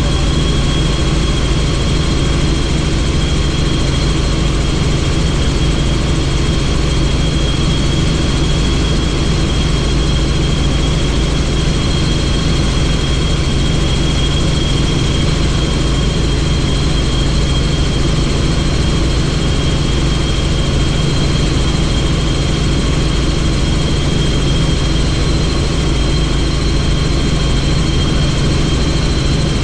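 Helicopter in steady flight: constant engine and rotor noise with a steady high whine, unchanging throughout.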